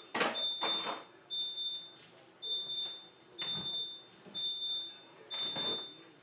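Refrigerator door-open alarm beeping: a steady high tone repeating about once a second, the sign that the fridge door is held open. Several brief swishing noises from cleaning sound over it.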